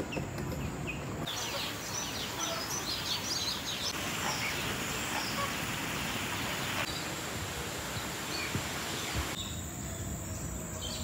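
Birds chirping: many short, quick high calls over a steady background hiss. The calls stop about nine seconds in and start again just before the end.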